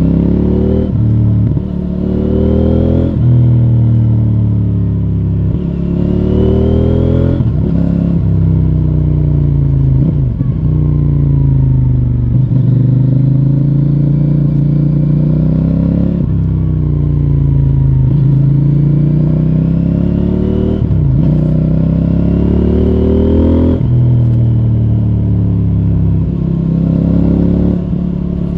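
CFMOTO 800NK Advanced motorcycle's parallel-twin engine through its stock exhaust, ridden on the road: the revs climb and drop again and again, with several sudden drops in pitch and longer stretches where the revs dip and rise more gently.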